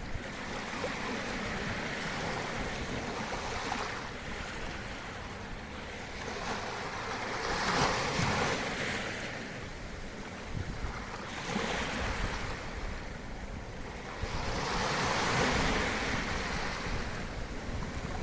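Gentle surf in a sheltered bay, small waves breaking and washing up the shore in slow swells every three to four seconds, with a low wind rumble on the microphone.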